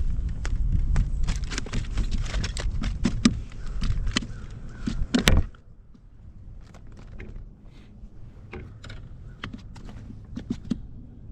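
Wind rumbling on the microphone with scattered knocks and clicks from handling gear in a kayak; the rumble stops abruptly about five seconds in, leaving faint knocks and clicks.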